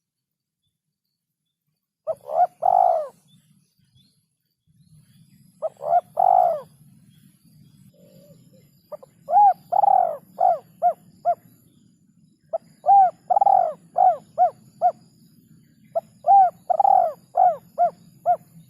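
Male spotted dove cooing: five phrases of arched coo notes, the first starting about two seconds in. The later phrases end in a quick run of shorter coos. A faint low hum lies underneath from about a quarter of the way in.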